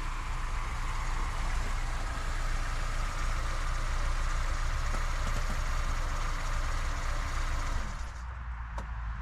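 A motor vehicle running with a steady low hum. About eight seconds in the sound changes and thins, and a few sharp clicks follow.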